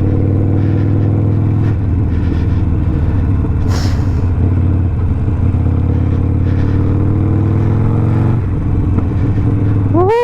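Harley-Davidson Sportster Iron 1200's air-cooled V-twin running under way through a Two Brothers 2-into-1 exhaust, a steady engine note whose pitch shifts about two seconds in and again near the end. A short wavering pitched sound starts just at the end.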